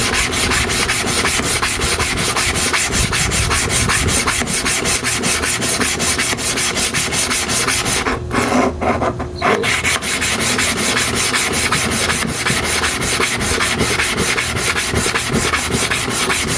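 Metal clipper blade rubbed rapidly back and forth under pressure on a sharpening stone dressed with oil and abrasive powder: a steady run of quick scraping strokes, with a short break about eight seconds in.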